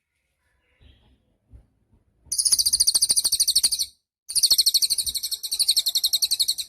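Cililin (little spiderhunter) singing two long, rapid, high-pitched trills of quickly repeated notes, the first starting a couple of seconds in and the second after a short pause.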